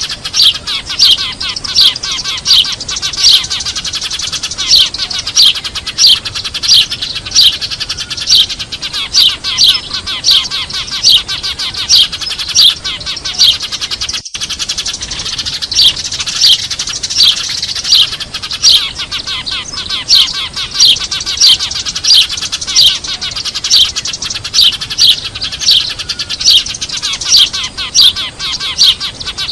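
A noisy flock of Eurasian tree sparrows chirping without pause: a dense chatter with loud single chirps standing out about twice a second. This is a sparrow lure call used for bird trapping, and it breaks off for a split second about halfway through.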